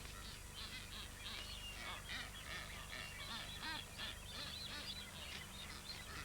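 Birds calling: many short, high chirps and squawks in quick succession, often overlapping.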